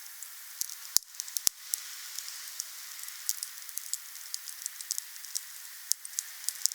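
Wood fire burning with a steady hiss and frequent small crackles, with two sharper pops about a second and a second and a half in.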